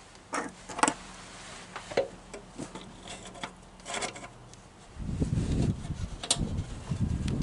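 Wrench and hand tools working a stuck oil drain plug on a lawn mower: a few sharp metallic clicks, then from about five seconds in a low, rough rubbing and scraping as the tool is strained against the plug.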